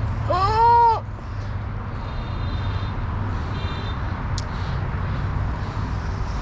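Steady low rumble of road traffic and wind. Near the start comes a loud, short pitched cry that rises and then falls. Later there are faint high squeaks and a single sharp click.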